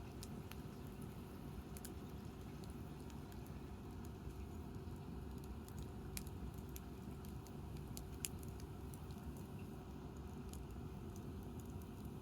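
Wood campfire burning: a steady low rumble under scattered sharp crackles and snaps from the burning firewood, with one louder pop about eight seconds in.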